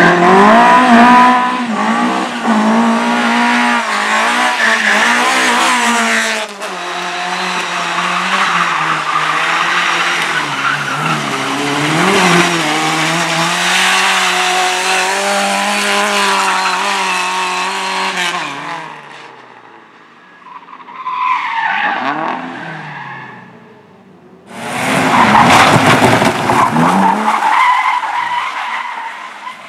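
A slalom race car driven hard through the course: the engine revs up and falls back again and again between gear changes, with tyres squealing, then fades away about two-thirds in. After a brief engine sound with falling pitch, the car comes back loud a few seconds before the end, revving with tyre squeal.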